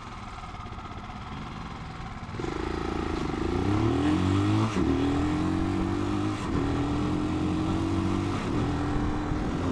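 Italika 250 motorcycle engine idling quietly, then pulling away about two seconds in. Its pitch rises and drops back at two upshifts before settling into a steady run.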